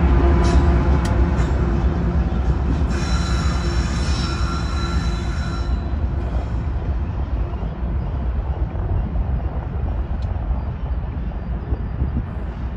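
Westbound BNSF unit freight train rolling past with a heavy low rumble. A high wheel squeal is heard from about three to six seconds in, and the train fades away toward the end.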